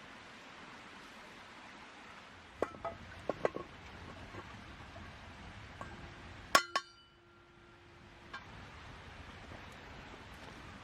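Camp cookware clinking: a few light clinks, then one louder strike about six and a half seconds in that rings on for about a second, over a steady background hiss.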